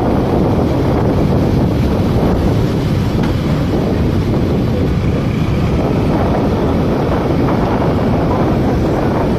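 Steady wind rushing over the microphone of a moving motorcycle, with road and engine noise mixed underneath.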